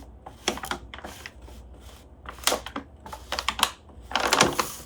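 Paper bag crinkling in irregular crackles and clicks as an African grey parrot moves about inside it, with a longer stretch of rustling near the end.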